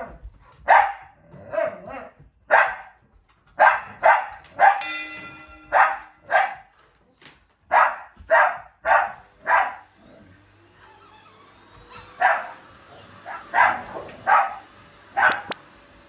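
Dogs barking again and again, about a dozen sharp barks in the first ten seconds. About ten seconds in, a vacuum cleaner's motor starts with a rising whine that settles into a steady run, and the barking picks up again with four more barks at the running vacuum.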